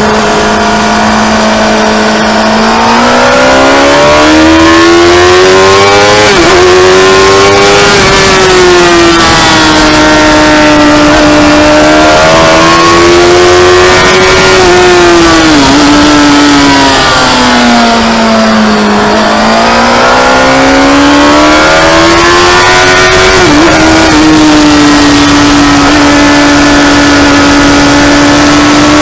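Motorcycle engine at high revs on track, its note climbing and falling in long sweeps, with a brief dip in pitch at each of three gear changes.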